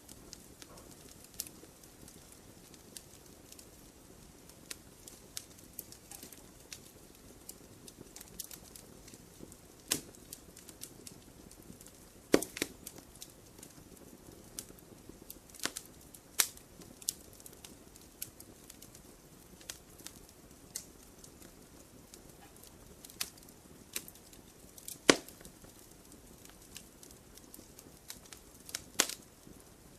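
Campfire burning wood, with irregular crackles and pops over a low hiss; the loudest snaps come at about 12, 16, 25 and 29 seconds in.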